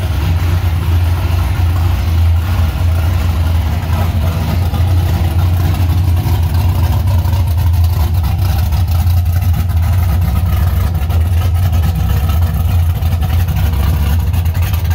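High-compression (13.5:1) LS1 V8 running at a steady idle.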